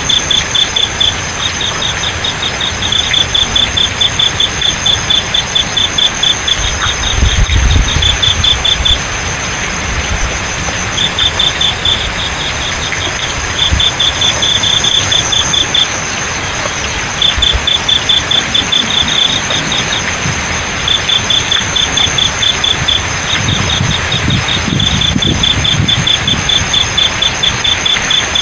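Field crickets chirping in trains of rapid pulses, each train lasting a second or two, over a steady high insect whine and the even hiss of flowing water. A low rumble swells twice, about a quarter of the way in and again near the end.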